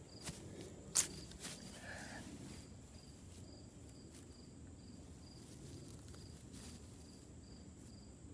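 A cricket chirping steadily and faintly, nearly three chirps a second. Over it come a few sharp clicks, the loudest about a second in.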